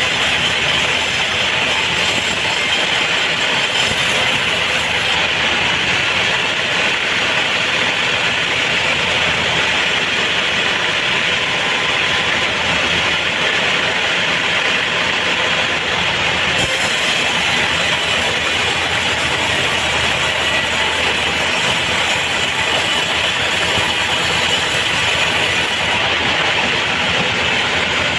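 Homemade band sawmill running, with a loud, steady, even mechanical noise.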